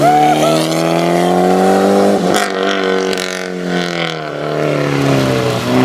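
Mitsubishi Lancer Evolution 6.5's turbocharged four-cylinder engine pulling past and away. Its note holds steady, falls slowly in pitch through the middle and climbs again near the end.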